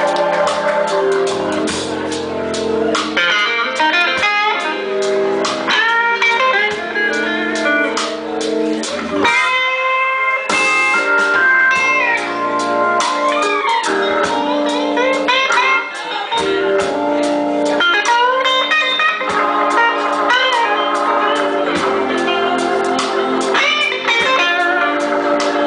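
Live blues band playing a slow number, an electric guitar leading with sliding, bending notes over bass and drums.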